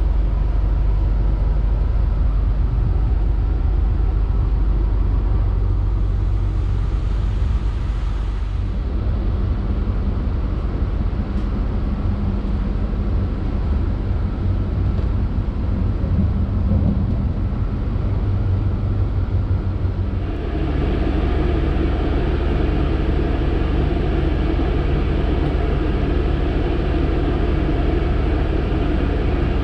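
Steady low rumble of a loco-hauled Trenitalia Intercity train running, heard from inside the passenger coach. About two-thirds of the way through the noise suddenly gets louder and fuller.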